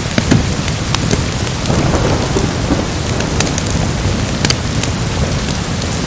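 Steady heavy rain with a rolling swell of distant thunder about two seconds in, under the scattered sharp pops of a crackling wood fire.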